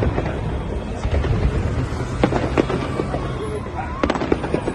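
Fireworks display: a steady low rumble of bursts, with clusters of sharp crackles about two seconds in and again about four seconds in.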